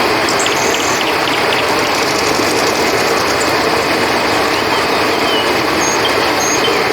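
Steady rushing of a river, with occasional short, high chirps of crickets over it.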